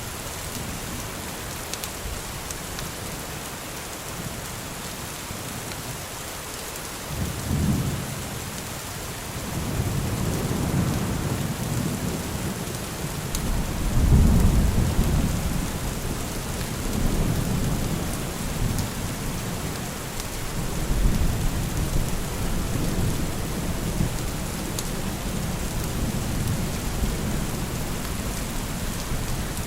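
Steady rain falling, with a roll of thunder: a low rumble begins about a quarter of the way in, swells to its loudest around the middle and rolls on in waves before settling back under the rain.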